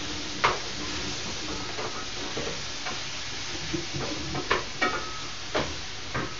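Diced salsiccia and sliced mushrooms sizzling steadily in a frying pan, with a few short clicks and knocks as they are stirred.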